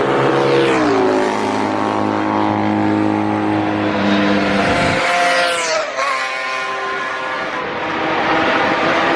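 Motorcycle engines running hard on a race circuit. The pitch drops about a second in, and around five to six seconds in a sharp falling whine marks a bike passing close by, before another engine holds a steady note.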